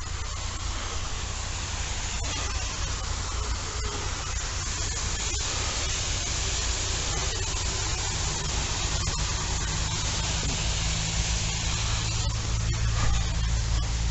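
Moving vehicle: a steady engine hum under a loud hiss of road and wind noise, the engine note rising a little about ten seconds in.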